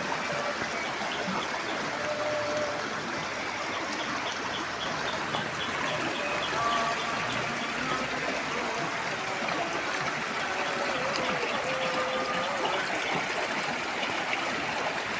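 River water running steadily over rocks, an even rushing flow, with a few short pitched notes rising above it here and there.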